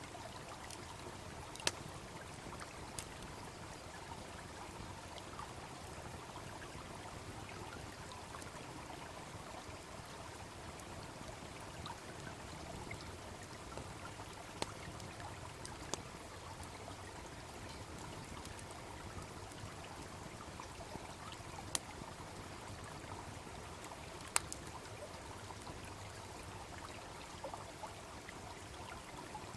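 Steady rush of a babbling brook, with a wood fire crackling and giving about half a dozen sharp pops scattered through it.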